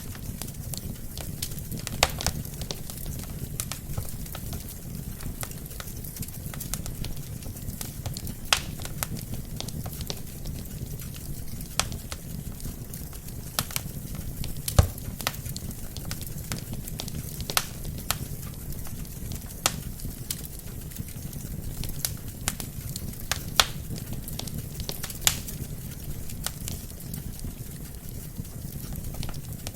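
Wood fire burning in a fireplace: a steady low rumble of flames with irregular crackles and occasional sharper pops from the burning logs.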